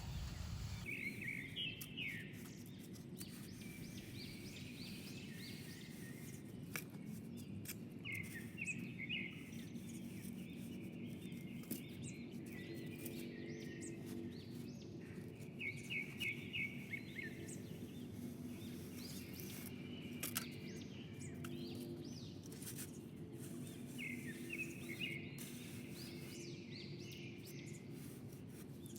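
Songbirds chirping in short, quick phrases that come back every few seconds, over a steady low background hum, with a few faint clicks.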